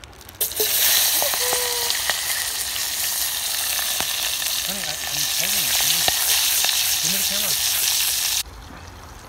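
Whole red chillies, tomatoes, shallots and garlic frying in hot oil in a steel pot on a camp stove, a loud steady sizzle. The sizzle bursts up as the vegetables hit the oil about half a second in and cuts off suddenly near the end.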